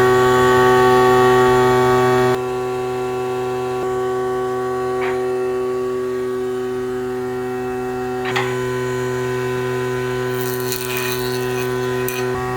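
Electric motor of a woodworking machine running at steady speed with an even hum, a slight drop in level a couple of seconds in. Near the end a rougher, higher scraping sound joins it as a tool starts working the wood.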